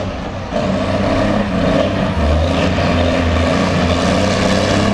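Diesel pulling truck's big Caterpillar engine at full power, pulling the sled: a loud, steady engine drone that gets louder about half a second in.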